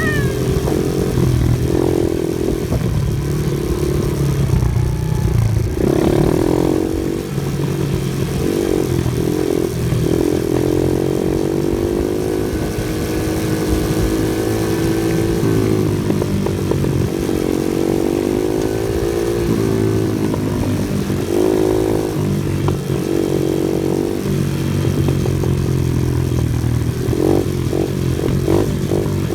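Off-road vehicle engine running under changing throttle, its pitch rising and falling as it revs up and eases off.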